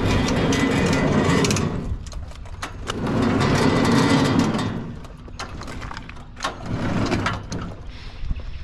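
Wood-Mizer LT50 portable sawmill's engine running. It is loud at first, eases off, swells again for about two seconds, then settles lower with scattered clicks and knocks.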